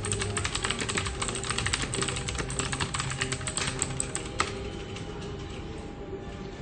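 Fast typing on a computer keyboard: a dense patter of key clicks that thins out after about four seconds, with one sharper key strike just before it does. Under it runs a steady office background hum.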